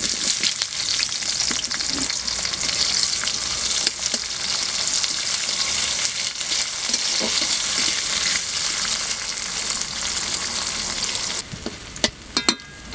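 Sliced onions hitting hot oil with whole spices, sizzling loudly and being stirred. The sizzle starts suddenly and drops off near the end, followed by a few sharp taps.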